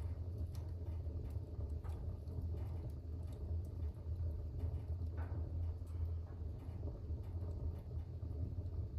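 Fire burning in a fireplace: a steady low roar of the flames with scattered faint crackles and pops, and a brief hiss about five seconds in.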